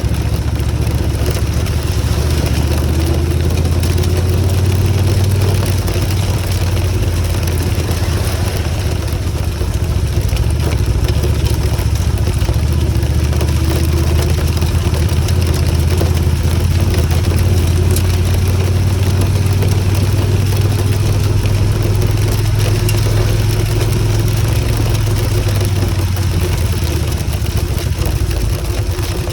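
Motorcycle engine running at a steady, low, even speed while the bike rides slowly, with a steady rushing noise over it.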